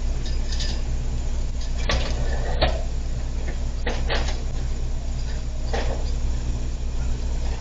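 Steady low drone of a moving vehicle heard from inside the cabin, with a few short knocks or clunks scattered through it.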